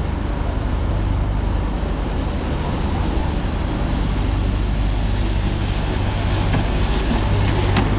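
Steady city street noise of road traffic with a deep, continuous rumble, growing slightly louder near the end.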